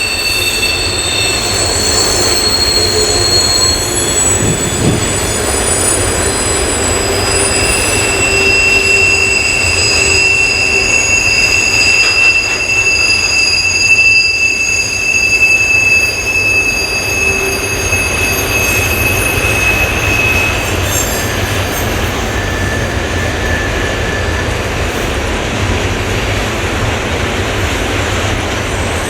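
Empty freight cars rolling through a curved track connection, their wheel flanges squealing in long, steady high-pitched tones that come and go, over the low rumble of the wheels on the rails.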